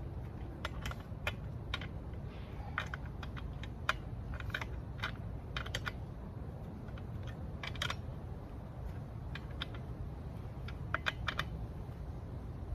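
Irregular light metallic clicks and ticks of hands and a tool working on a Husqvarna 395 XP chainsaw's bar and chain, adjusting the chain tension, with a quick cluster of clicks near the end.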